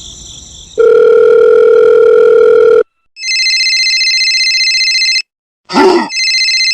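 A steady telephone dial tone for about two seconds, then a telephone ringing with a fast trilling ring in two bursts. A short sliding sound falls between the two bursts.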